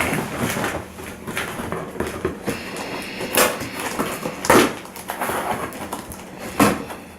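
A cardboard delivery box and its packaging being opened and rummaged through: rustling, with three sharp knocks about three and a half, four and a half, and nearly seven seconds in.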